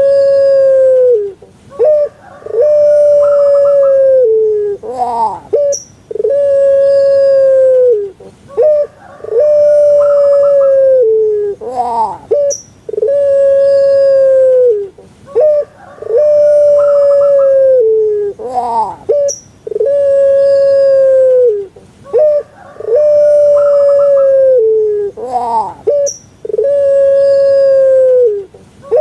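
Puter pelung dove (Streptopelia risoria) cooing over and over: each call is a few short rising-and-falling notes followed by one long drawn-out note that dips at the end, repeated about every three seconds.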